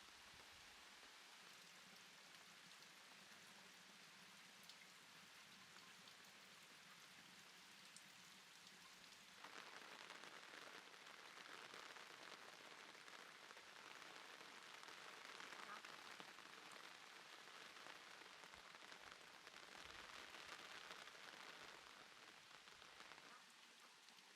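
Faint, steady rain-like hiss. It gets louder suddenly about ten seconds in and eases again shortly before the end.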